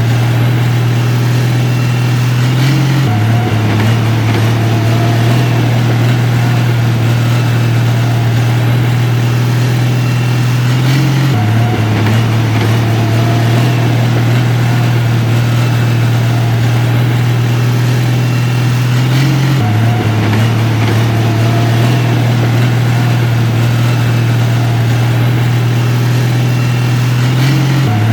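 Heavy diesel engine of construction machinery running steadily with a deep, even hum. Its pitch briefly shifts about every eight seconds.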